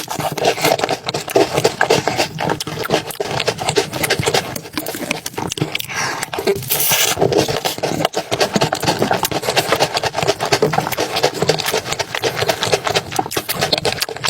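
Mouth sounds of eating, heard up close: a steady run of wet chewing, smacking and slurping that goes on without a break.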